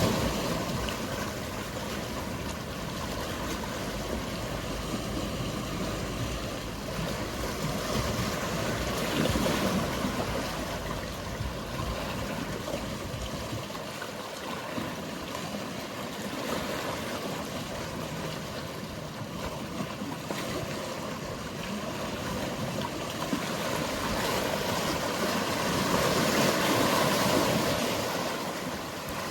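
Mediterranean sea waves washing in, a steady wash that swells twice. A low rumble runs underneath and drops away about halfway through.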